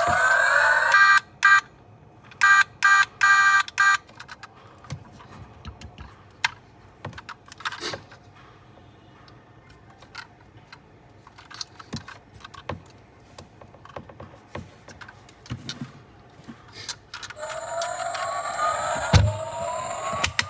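Scattered light clicks and ticks, like small metal and plastic parts of a diecast toy car being handled. At the start and again near the end come electronic rising pitch sweeps, with a quick run of short beeps in the first few seconds.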